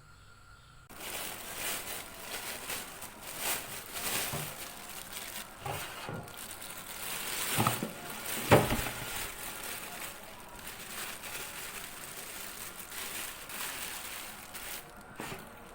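Household handling noises: continuous rustling and crinkling with scattered knocks, the sharpest one about eight and a half seconds in.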